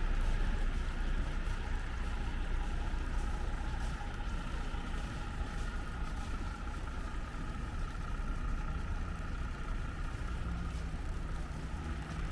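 Steady rumble of street traffic: vehicle engines running, with a constant hum in the background.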